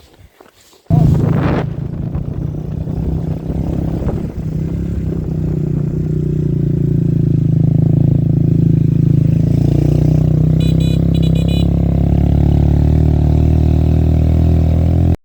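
A motor vehicle engine starts suddenly about a second in and runs steadily at a constant pitch, then cuts off abruptly at the very end.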